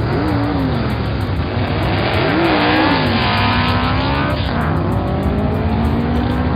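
Cartoon engine-revving sound effect over background music: the pitch rises and falls twice, then settles into a steady tone that slowly climbs.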